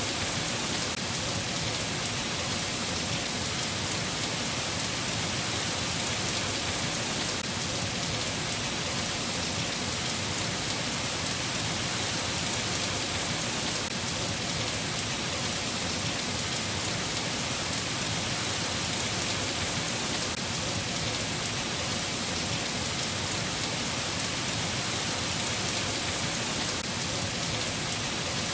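Steady, even rainfall with a constant patter of drops and no thunder.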